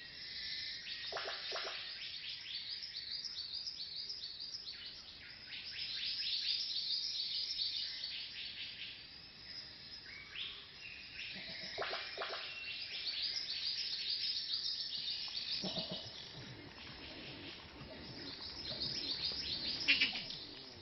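Rainforest birds at dawn: a dense chorus of rapid, high chirps and calls, with a louder call near the end that is taken to be the bowerbird calling beside the hide.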